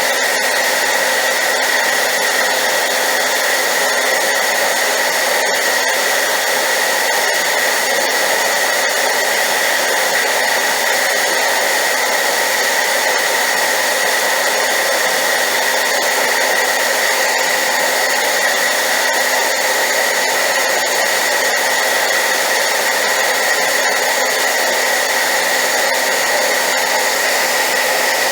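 Hair dryer running steadily on high power, a loud even rush of air with a constant high whine, used as white noise.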